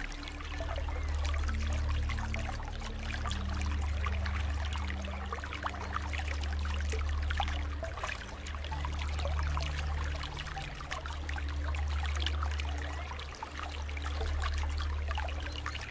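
Flowing water trickling and pouring steadily, over soft background music of low held notes that change every second or two.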